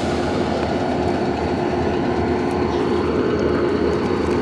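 Diesel freight train's locomotives running: a continuous low rumble with a steady hum.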